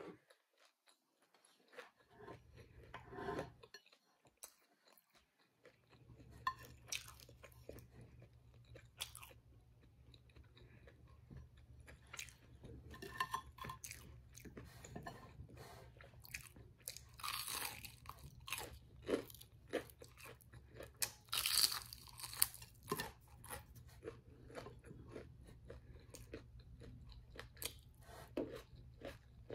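A person chewing crisp fried food with repeated sharp, crackly crunches between quieter chewing. The crunches come loudest in two clusters a little past the middle.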